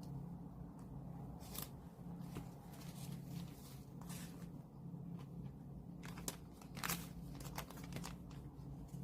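Album packaging being handled and unwrapped: short, scattered crinkles and rustles, coming thicker about two-thirds of the way in, over a steady low hum.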